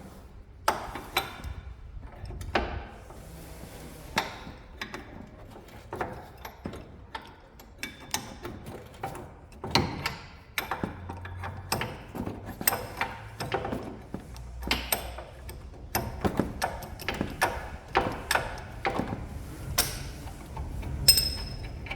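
Irregular metallic clicks, taps and knocks of hand tools on front-suspension parts during disassembly, with one sharp ringing clink near the end.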